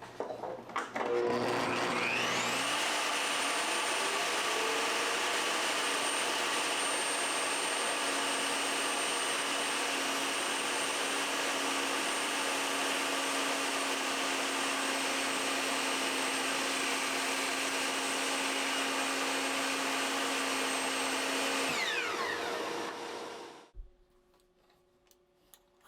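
Electric power tool motor spinning up to speed, running steadily at high speed for about twenty seconds, then winding down and stopping near the end.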